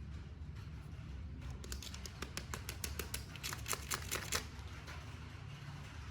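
A run of irregular clicks and crackles from hands handling plastic toy packaging or a figure, starting about a second and a half in and stopping near four and a half seconds, over a low steady hum.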